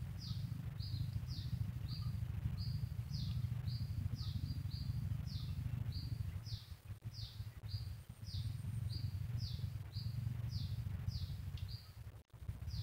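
A bird calling over and over in a quick repeated phrase of high, short notes, a brief even note alternating with a falling one, about two to three notes a second, over a steady low rumble.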